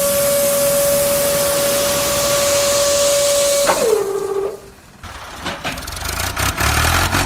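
A steady high whine over a hiss, like a small machine running, drops in pitch and cuts out a little under four seconds in. Scattered clicks and knocks over a low rumble follow.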